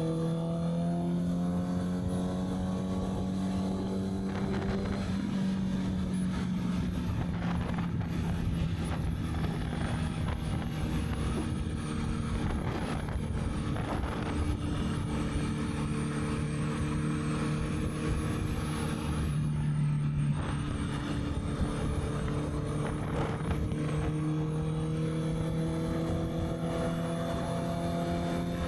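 Honda CB650R's inline-four engine running on the move, its note climbing slightly, dipping about five seconds in, holding steady, then rising gradually near the end. Wind noise on the microphone runs underneath.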